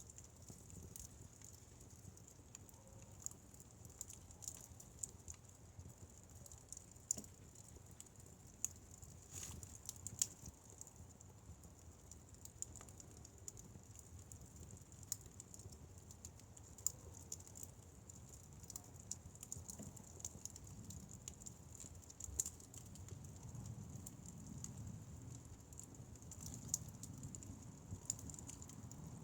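Firewood fire burning, with irregular pops and crackles over a low rumble of the flames and a steady high hiss.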